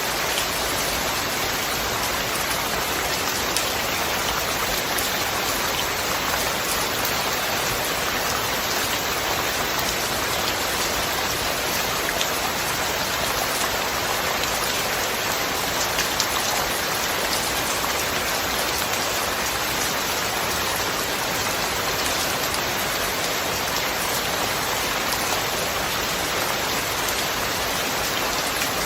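Steady rain falling, a dense even hiss with scattered individual drop taps.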